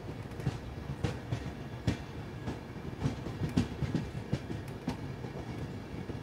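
Passenger train coach departing a station and gathering speed: its wheels run over rail joints in an irregular series of sharp clacks above a low running rumble.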